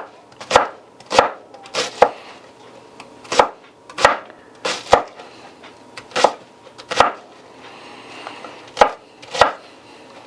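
Kitchen knife chopping onion on a cutting board: about a dozen sharp knife strikes at an uneven pace, some in quick pairs.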